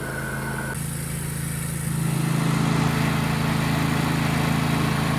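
John Deere LA130 lawn tractor engine running steadily now that the air has been worked out of its fuel line. It gets louder about two seconds in.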